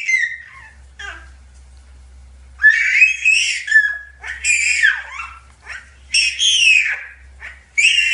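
A young child squealing: a run of shrill, high-pitched shrieks that fall in pitch at their ends, about one a second, after a quieter gap of a second or so near the start.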